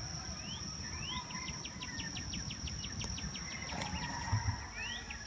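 A small songbird singing: a few short upward-slurred whistles and two rapid trills of about eight notes a second. Under it runs a steady high-pitched insect drone, with a low rumble of outdoor background noise.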